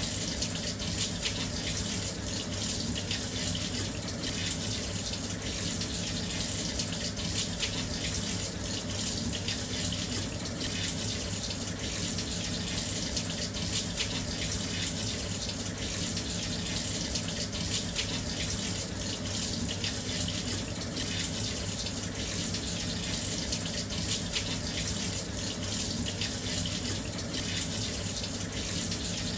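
Washing machine filling with water: a steady, continuous rush of water pouring into the drum.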